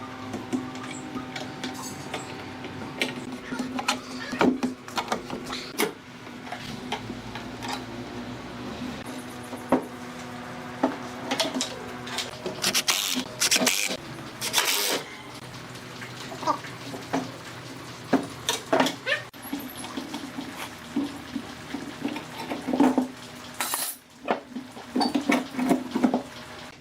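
Workshop clatter: many irregular knocks and clicks of tools and pieces being handled, over a steady machine hum.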